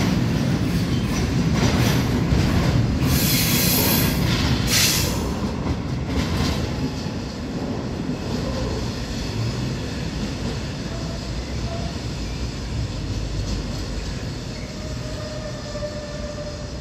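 Freight train of wagons carrying semitrailers rolling past on the rails, its wheels rumbling, with a high-pitched wheel squeal a few seconds in. The rolling noise fades steadily as the last wagons move away.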